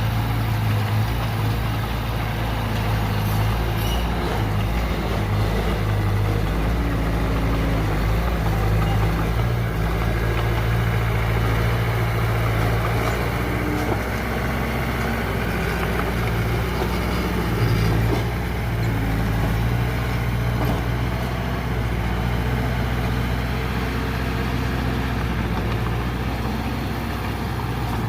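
Diesel engine of heavy earthmoving machinery running steadily with a low, even hum.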